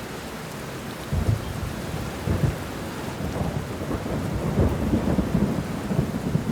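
Steady rain falling on banana leaves and bushes, with thunder that starts rumbling about a second in and keeps rolling, swelling again in the second half.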